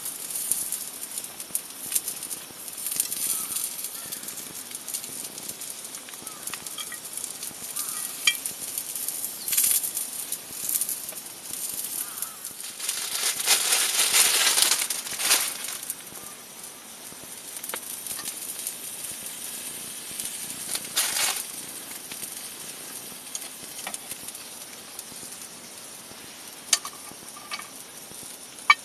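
Food sizzling and crackling as it cooks, with scattered small clicks and a louder surge of sizzle about thirteen seconds in that lasts a couple of seconds.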